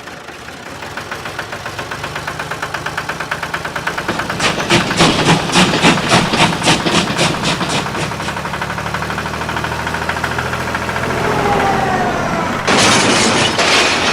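Small engine running with a regular chugging beat that grows louder and is strongest about five to eight seconds in. A short burst of hissing noise starts about a second and a half before the end.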